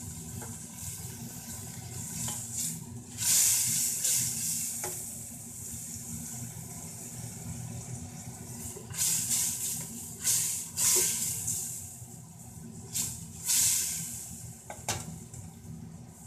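Onions frying in hot oil with garlic paste thinned with water, sizzling in a pressure-cooker pot as a wooden spoon stirs them; the sizzle flares into loud hissing surges several times as the wet mix is turned, with a couple of knocks of the spoon against the pot.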